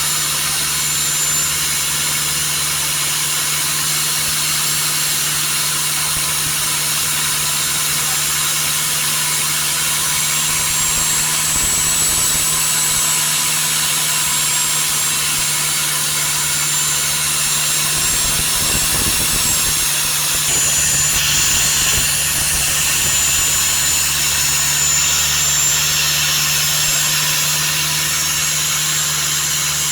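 Boat engine running steadily at an even speed, with a constant hum throughout.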